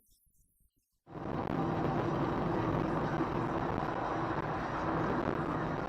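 Near silence for about a second, then steady car driving noise, engine and road noise, that starts suddenly and holds an even level.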